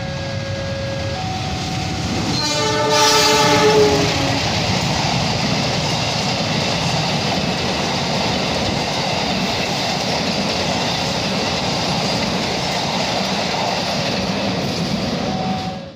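A CC206 diesel locomotive sounding its horn, loudest about three seconds in, then the long train of passenger coaches rushing past close by with steady wheel and rail noise.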